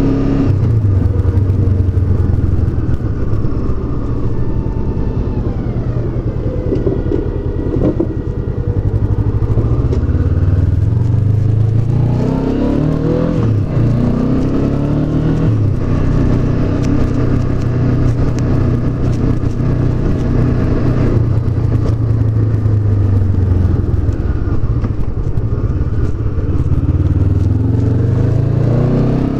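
Honda CB500X's 471 cc parallel-twin engine under way, rising and falling in pitch as the bike slows and accelerates. The engine holds a steady note in the middle, then drops and climbs again near the end.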